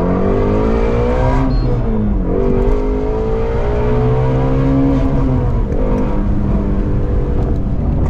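Ford Mustang Shelby GT350R's flat-plane-crank V8 through its exhaust, loud, its revs climbing and then falling sharply several times, about a second and a half in, around five and a half seconds in, and again near the end.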